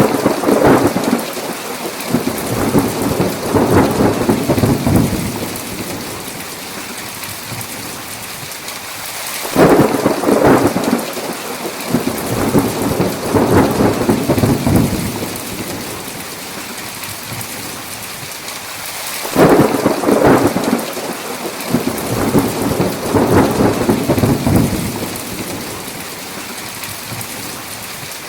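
Steady heavy rain with three rolls of thunder about ten seconds apart, one right at the start, one about a third of the way in and one about two-thirds in. Each rumble swells several times over about five seconds before fading back into the rain.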